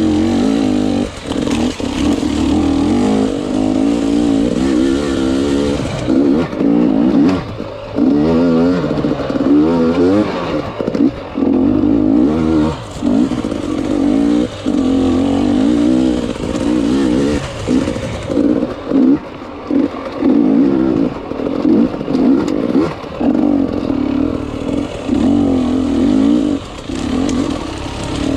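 Enduro motorcycle engine revving up and down under the rider's throttle, rising and falling in pitch. It drops off briefly many times as the throttle is shut and reopened over rough ground.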